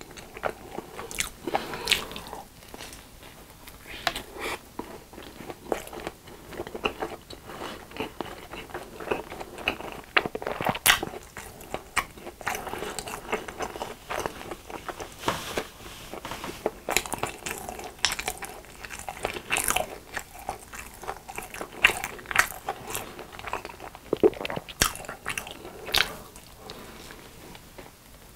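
A person chewing and biting a corn dog coated in crunchy crumbs, with a mustard topping: irregular sharp crunches and wet chewing, close to the mic.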